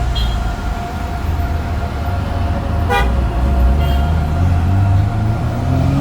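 Car engine running with a low rumble, a short horn beep about three seconds in, then the engine revving up, its pitch rising near the end.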